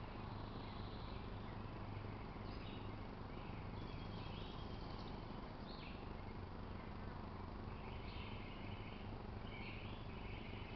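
Small birds chirping in short, irregular calls over a steady outdoor background hiss and low hum.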